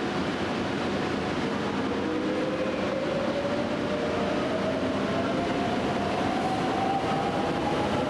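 Electric train pulling away, its traction motors whining in a tone that climbs steadily in pitch as it gathers speed, over a steady rumble of running noise.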